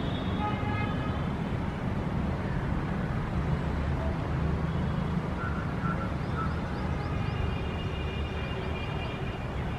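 City traffic ambience: a steady low rumble of road traffic. A faint held pitched tone sits over it at the start and again near the end.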